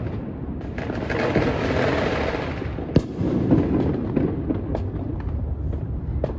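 Fireworks going off without a break: a dense rolling rumble of distant bursts, one sharp crack about three seconds in, then a run of lighter crackles.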